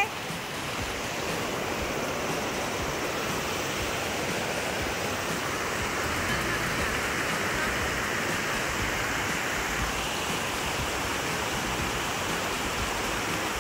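A stream flowing: a steady rush of water.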